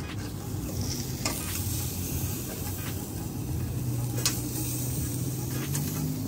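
Chicken sizzling over charcoal on a wire grill rack while metal tongs turn the pieces, with a few sharp clicks of the tongs against the grill wires, the sharpest about four seconds in.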